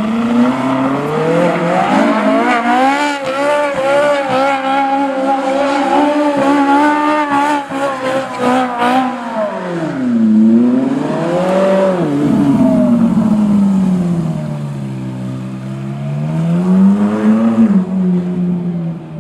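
Ferrari 458 Italia's 4.5-litre V8 held at high revs in a burnout, the pitch wavering quickly, with tyres squealing. From about halfway, the revs swing down and back up several times in long sweeps, then drop near the end.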